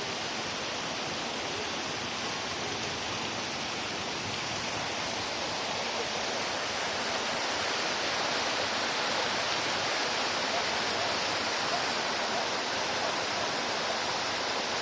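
Steady rushing of running water, growing a little louder about six seconds in.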